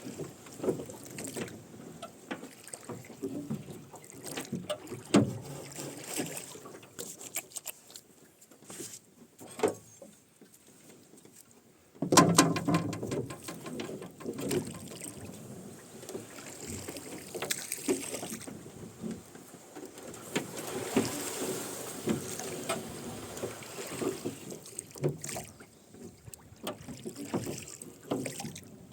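Rowing a boat: oarlocks creaking and knocking and oar blades splashing in the water, stroke after stroke. The strokes go quiet for a few seconds about a third of the way in, then pick up again.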